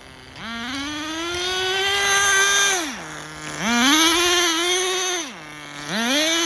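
Tamiya TGS-R nitro RC car's glow engine revving under throttle: three bursts, each climbing to a high pitch, held for a second or two, then dropping back to idle. The carburettor is tuned rich, which the owner believes is richer than the factory setting.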